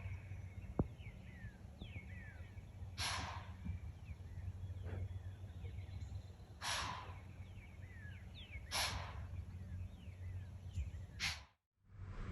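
Quiet outdoor morning ambience with faint songbird chirps, many short down-sliding notes, broken every two or three seconds by a short hiss.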